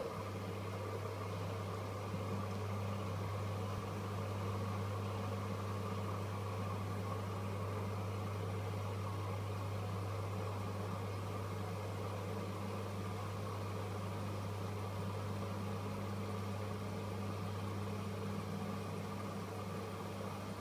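AEG Öko-Lavamat 85739 washing machine running with a steady, unchanging low hum, with no drum-turning rhythm or pauses.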